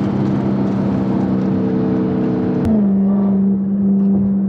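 Dodge muscle car's V8 engine droning steadily under way, heard from inside the cabin; just past halfway there is a click and the engine note steps down to a lower, steady pitch.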